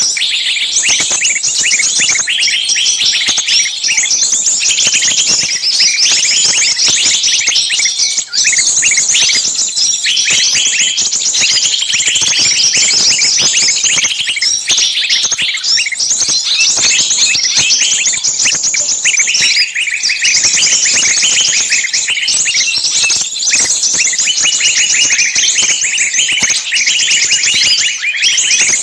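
Many birds chirping at once in a dense, loud, unbroken chorus of short overlapping chirps.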